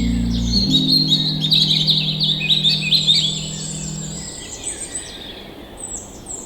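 A chorus of songbirds chirping and twittering rapidly, busiest in the first four seconds and thinning toward the end, over low sustained musical tones that fade out about four seconds in.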